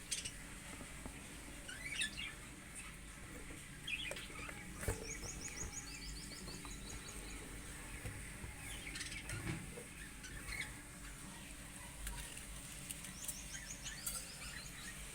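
Budgerigars chirping and twittering softly, with scattered short high calls and two quick runs of rapid high notes, one near the middle and one near the end.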